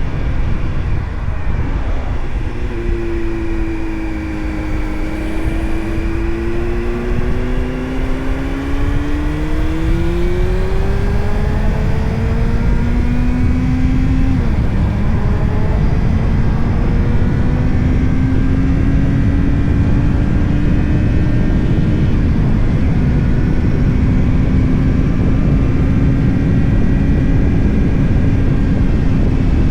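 Motorcycle engine riding through changing speeds: its pitch sags and then rises as it pulls, drops suddenly about halfway at a gear change, then holds fairly steady at cruise. A heavy low rumble of wind and road noise runs under it.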